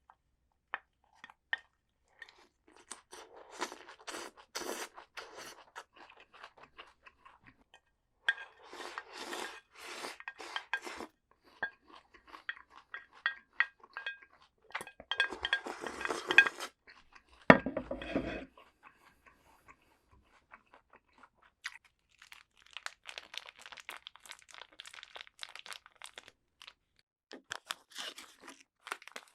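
Crisp raw vegetables being bitten and chewed close to the microphone, in bursts of crunching separated by short pauses. A single louder knock comes about seventeen seconds in.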